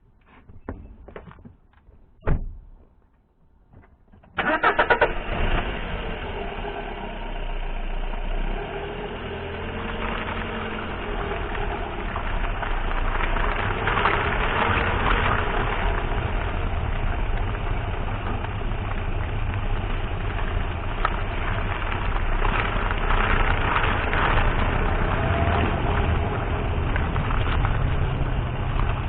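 A few faint clicks, then the Datsun on-DO's engine cranks and fires about four seconds in and keeps running steadily.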